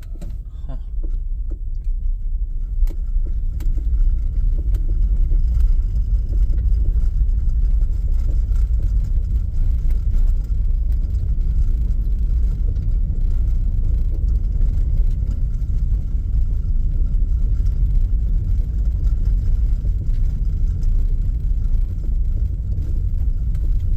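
Steady low rumble of a car driving, engine and road noise heard from inside the vehicle, with faint scattered clicks and rattles.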